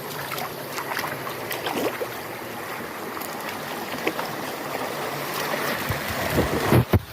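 Steady rushing of a rainforest stream flowing over rocks, with small splashes, and a few louder knocks near the end.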